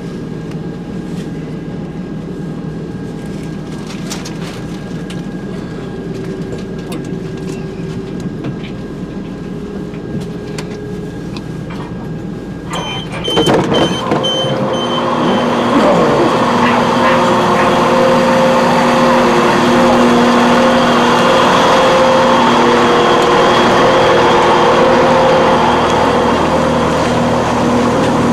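Diesel train engine running steadily with a held hum. About halfway through it becomes suddenly louder and fuller, then stays at that level.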